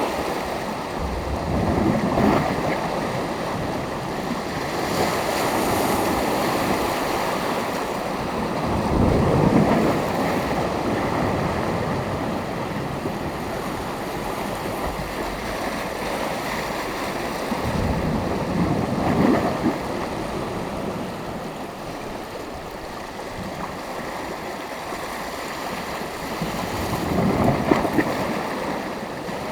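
Sea waves breaking on the shore, a continuous wash of surf that swells about every eight or nine seconds as each wave comes in.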